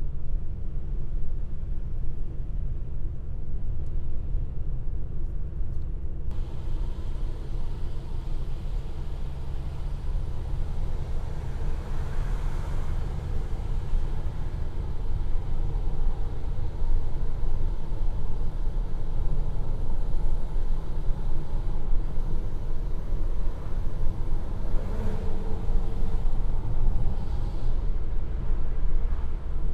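Steady engine and road rumble of a moving Opel Corsa with a 1.2-litre engine, heard from inside the car. A louder rushing hiss joins abruptly about six seconds in.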